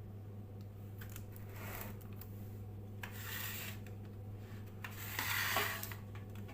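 Steady low electrical hum throughout, with three short spells of rustling and handling noise, the last, about five seconds in, the loudest.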